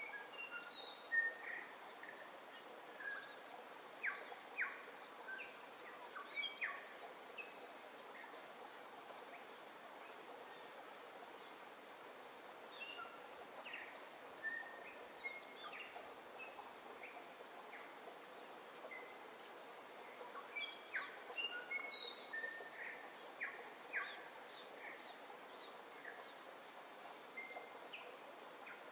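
Birdsong from several birds, short whistled notes and chirps scattered over a steady faint hiss, busiest a few seconds in and again in the second half.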